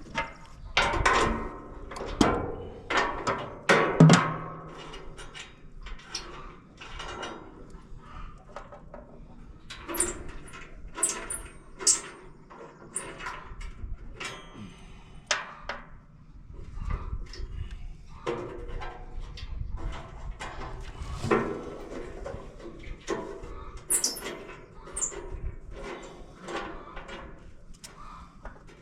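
Irregular metal clanks and knocks of tools and bolts as a steel access panel on a Woodmaster 175 wood chipper is unbolted and lifted off. The knocks come thickest in the first few seconds.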